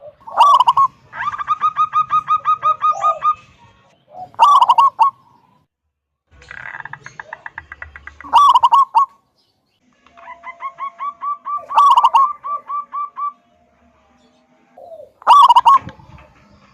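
Zebra dove (perkutut) singing: five loud cooing "kung" notes, one about every three and a half to four seconds, with runs of rapid staccato notes between them.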